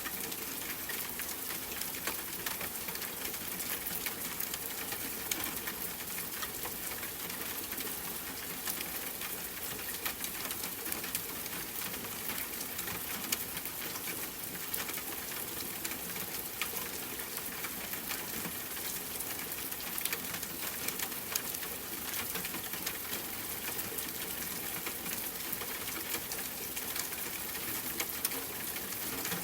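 Steady rain pattering, a continuous hiss dotted with many small drop ticks, over a faint steady hum.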